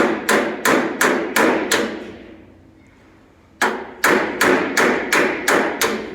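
Body hammer striking car-door sheet steel in quick even blows, about three a second, each with a short metallic ring: planishing out small pits left after a dent repair. Six blows, a pause of about a second and a half, then seven more.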